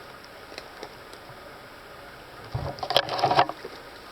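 A footstep through forest undergrowth: a dull thump about two and a half seconds in, then a brief crackling rustle of leaves and brush, over a faint steady hiss.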